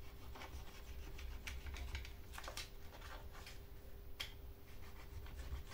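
Quiet, irregular light clicks and taps of a chainsaw's hard plastic parts being handled and worked loose, with a faint steady hum beneath.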